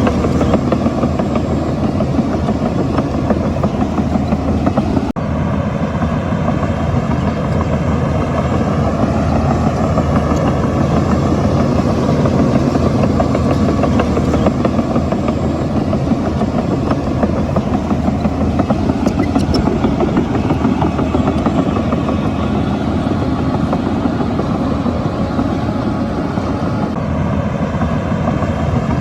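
Shantui bulldozer's diesel engine running under load, its engine note rising and falling as it works, with a brief click about five seconds in.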